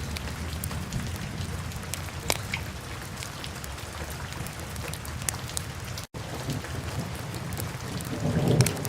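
Wood fire burning in a fireplace: a steady low rumble of flames with scattered sharp crackles and pops. The sound drops out for an instant about six seconds in, and the low rumble swells briefly near the end.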